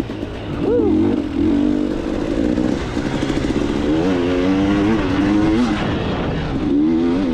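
KTM 300 two-stroke dirt bike engine being ridden, its pitch rising and falling over and over with the throttle, with a few quick revs.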